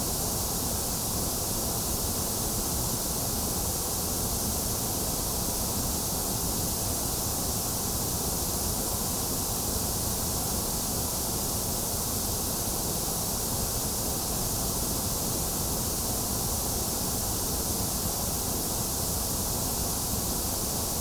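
Steady white-noise sleep track: an even, unchanging hiss with no breaks, a little thinner in the upper middle of the range than above and below it.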